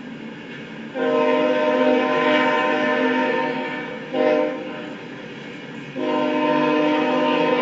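Locomotive air horn sounding a chord of several steady tones: a long blast starting about a second in, a short blast just after four seconds, then another long blast from about six seconds.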